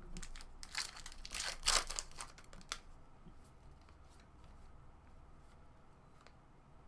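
Trading-card packaging being torn open, with crinkling for about the first three seconds, then only a few faint handling clicks.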